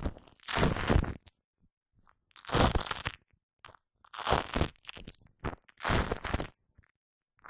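Shaving foam squished and worked right against a condenser microphone, in four short, sticky bursts about a second and a half apart, with silence between them.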